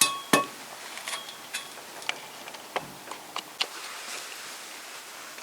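Scattered light metallic clinks and taps of steel exhaust pipe pieces being handled, two sharp ones at the start, a few with a brief ringing tone.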